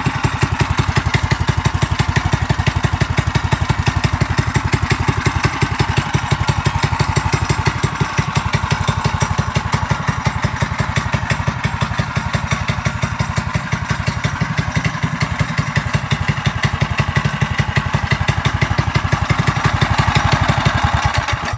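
The small engine of a mini bike trike runs steadily with fast, even firing pulses, then cuts off at the very end.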